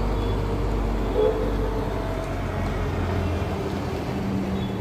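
Steady low rumble of road traffic or an engine running, with faint short higher sounds over it.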